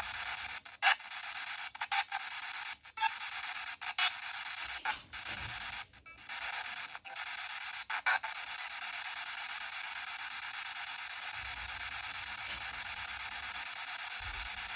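Spirit box radio sweeping through stations: a steady hiss of static with short clicks and bursts about once a second for the first eight seconds, then unbroken static.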